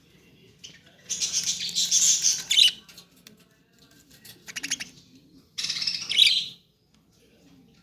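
Adult female budgerigars chirping and chattering in three bursts of harsh, high-pitched calls: about a second in, a shorter rapid run of clicks near the middle, and another burst at about six seconds.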